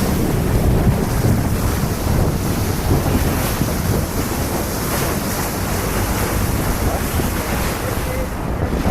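Wind buffeting the microphone over the rush of water past a moving boat, a steady loud noise.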